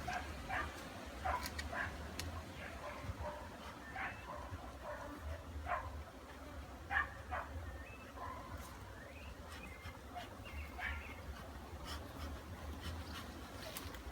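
Short, high animal calls, repeated irregularly, over a steady low rumble.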